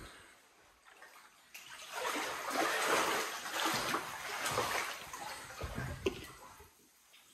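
Floodwater splashing and sloshing as someone wades through it indoors in waders, loudest in the middle, with a short knock near the end.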